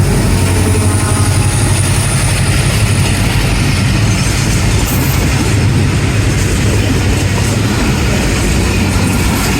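Train running by, a loud steady rumble of engine and wheels on the rails.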